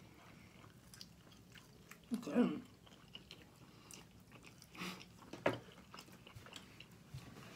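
Two people chewing chicken wings close to the microphone: soft, wet smacking and clicking mouth sounds, with a short hum of a voice about two seconds in.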